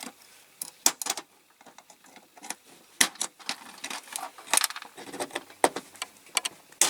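Irregular light metallic clicks and taps of small hand tools against a die-cast metal model, picking at the leftover part of an old rivet.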